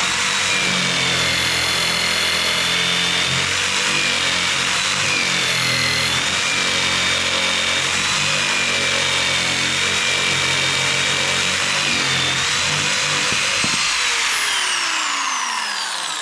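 Electric jigsaw sawing through a thick log, which the owner takes for eucalyptus; the log's thickness takes up nearly the whole blade length, so the saw labours and heats up. Steady motor whine over the cutting noise; about fourteen seconds in the saw is switched off and its pitch falls as it winds down.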